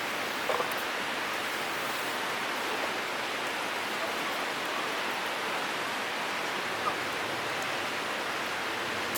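Steady, even hiss of running water, with two faint brief sounds on top, one about half a second in and one near seven seconds.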